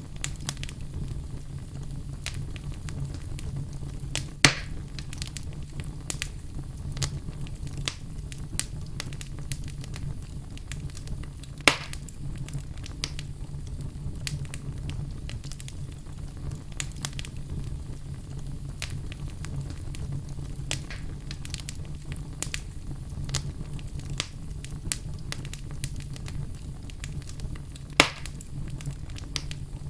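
Wood fire burning in a fireplace, crackling steadily over a low rumble, with three louder sharp pops from the burning logs.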